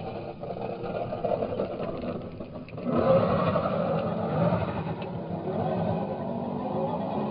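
Losi Baja Rey 1/10 electric RC trophy truck driving: a buzzing drivetrain whine mixed with tyre and dirt noise, getting louder about three seconds in.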